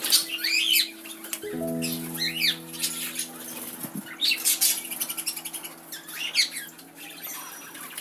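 Wild birds calling: three short up-and-down chirps spread through, and rapid high trills in the middle, over soft background music of low held notes that change about a second and a half in.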